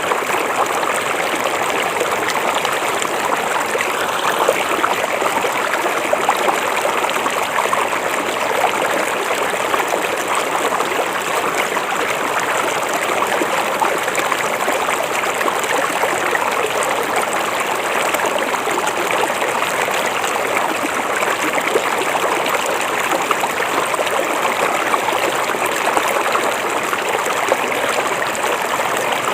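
River water flowing steadily over rocks, an even rushing with fine trickling detail.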